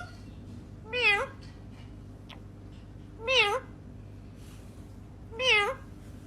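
Three meows, evenly spaced about two seconds apart, each one short with a wavering rise and fall in pitch.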